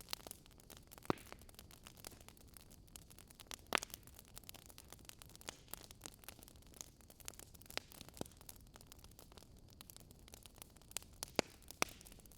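Wood fire crackling: irregular sharp pops and snaps over a steady soft hiss, with a few louder pops about a second in, near four seconds and twice near the end.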